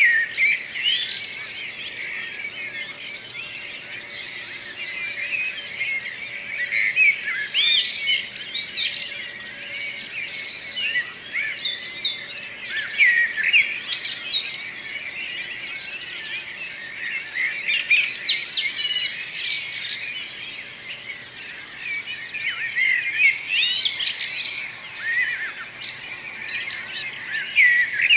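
Dawn chorus of several songbirds singing at once: many overlapping chirps, whistles and trills with no break.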